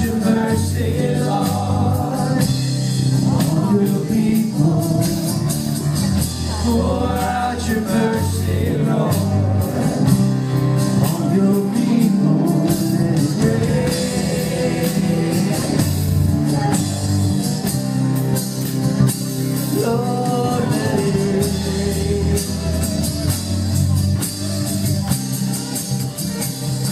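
Live worship band of guitar, keyboards and drums playing a worship song, with singing over it.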